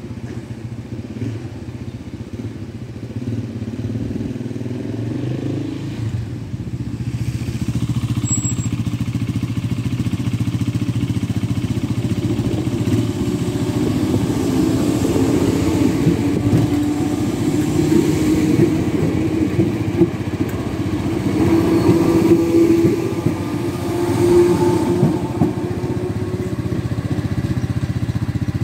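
Merseyrail electric multiple unit passing over a level crossing, getting louder as it draws in: a low steady hum with its traction motors whining and the wheels clattering over the rails.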